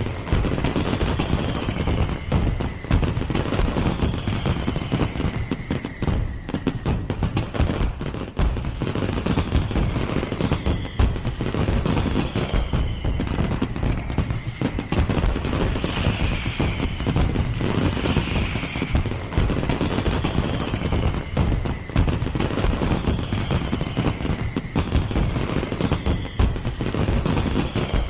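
Fireworks going off in a dense, continuous barrage of rapid bangs and crackles, with falling whistles recurring every couple of seconds.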